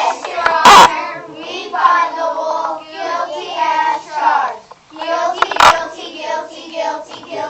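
Children singing a song, with a loud knock about a second in and another near the end.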